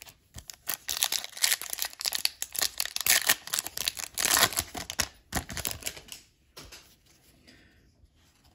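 A foil trading-card pack wrapper being torn open and crinkled in the hands: dense crackling for about six seconds, then only faint handling.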